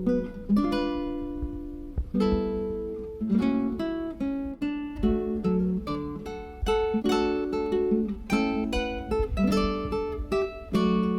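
Background music played on acoustic guitar, plucked and strummed chords in a steady rhythm.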